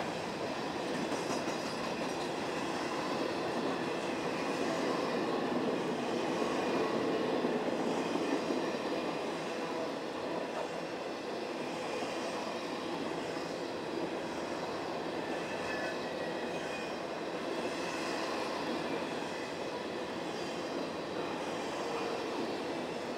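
Norfolk Southern intermodal freight train passing, its flatcars loaded with highway trailers: the steady rolling noise and rattle of steel wheels on the rails, a little louder about seven seconds in, with a faint high-pitched tone running over it.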